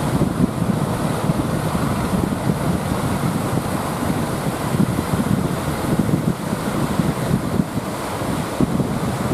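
Strong wind buffeting the microphone in uneven gusts over the wash of sea waves.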